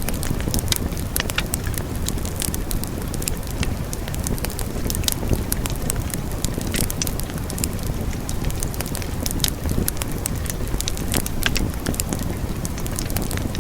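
Wood fire burning with frequent sharp crackles and pops over a steady low rumble.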